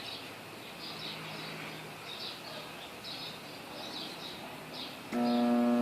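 Faint, regular high chirps, about two a second, from a bird outdoors over a quiet background. About five seconds in, a loud steady electrical hum starts abruptly.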